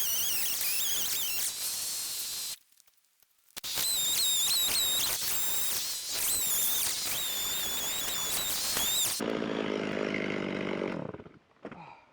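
Gas chainsaw running at high revs while cutting pine, its pitch wavering as the load changes. It breaks off for about a second near the start, then resumes. About nine seconds in it drops to a lower, steadier note and stops about two seconds later.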